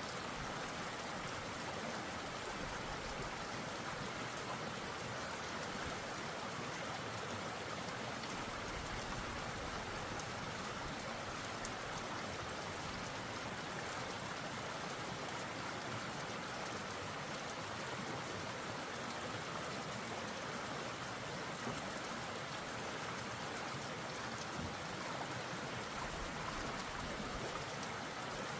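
Steady hiss of falling water, even and unbroken.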